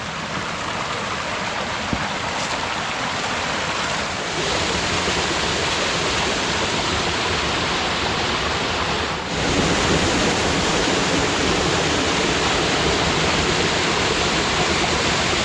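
Small waterfalls on a stream rushing steadily, growing louder in two steps, about four seconds in and again about nine seconds in.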